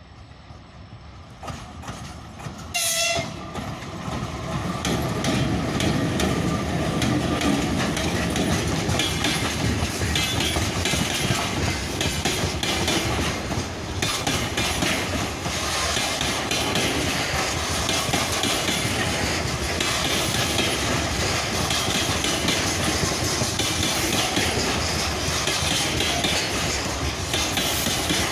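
Freight train hauled by a DE1 electric locomotive passing over a level crossing: one short horn blast about three seconds in, then the steady loud rumble and clatter of wheels on the rails as the wagons roll by.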